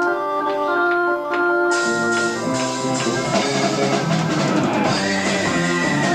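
Live progressive rock on an amateur tape recording: held Hammond-style organ chords, then drums, bass and guitar come in about two seconds in. Near the end a single high note is held and then bends down.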